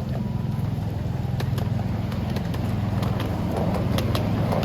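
Steam-hauled railway carriage running along the track, heard from inside as a steady low rumble, with scattered sharp clicks and knocks.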